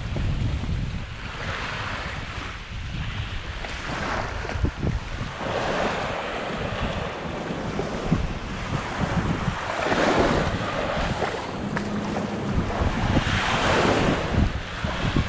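Small waves breaking and washing up the sand every few seconds, with wind buffeting the microphone in a low rumble.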